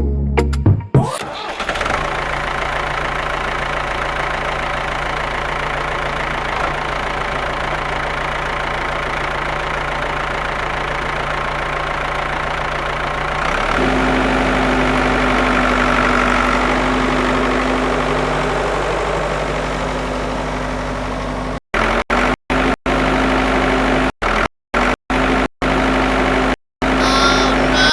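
Tractor engine idling steadily. About halfway through the note changes to a slightly higher, louder hum, and near the end the sound cuts out abruptly several times in short gaps.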